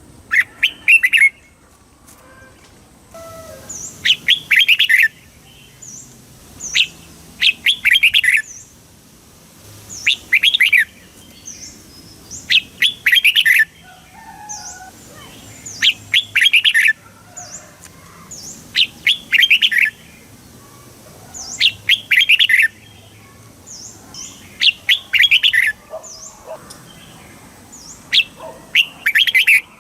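Red-whiskered bulbul singing: short bursts of rapid, bright notes, about ten phrases repeated roughly every three seconds, with thin high down-slurred chirps in between.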